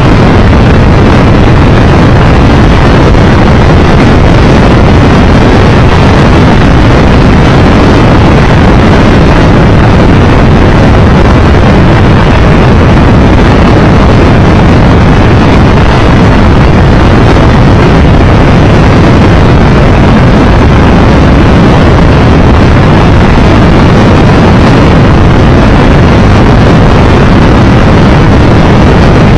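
Steady, loud wind rush buffeting a microphone on a Triumph Tiger Explorer 1200 ridden at road speed, with engine and road noise underneath.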